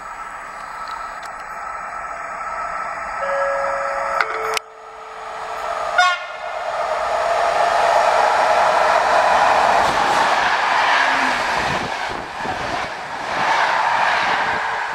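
Electric locomotive horn sounding two held notes, a higher one then a lower one, as a passenger train approaches. A short horn blast follows, then the train passes at speed with a loud rush of wheels and coaches that swells and ebbs.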